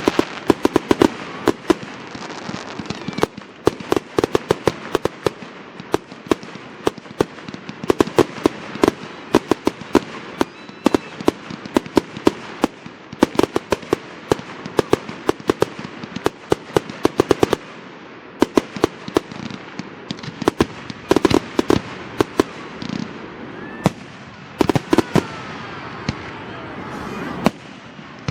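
Fireworks display: aerial shells bursting in rapid, uneven volleys of sharp bangs and cracks, dozens of reports one after another, with a brief lull near the end.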